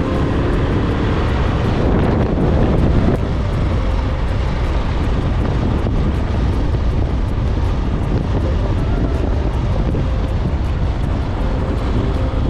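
Wind buffeting the microphone of a moving motorcycle, with engine and road noise beneath it; a loud, steady rushing rumble.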